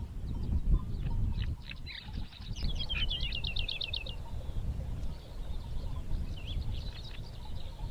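Small birds chirping in short high calls, with a fast run of about ten chirps some three seconds in, over a steady low rumble.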